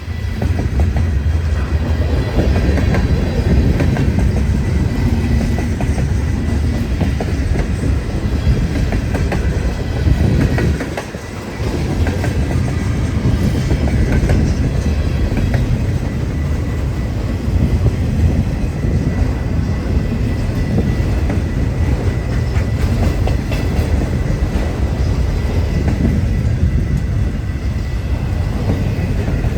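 Freight cars of a passing freight train rolling by: a steady rumble with wheels clicking over the rail joints, easing briefly about eleven seconds in.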